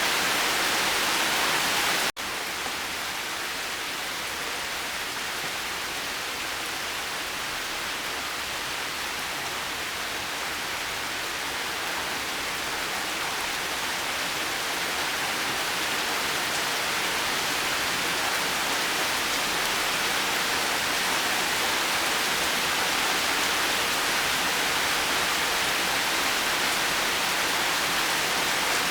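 Steady rain falling as an even hiss. About two seconds in, the sound drops out for an instant where the track is spliced, then goes on slightly quieter and slowly builds back.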